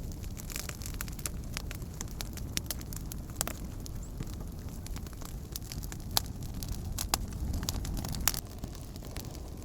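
Wood campfire crackling, with irregular sharp pops scattered through it over a low, steady rumble.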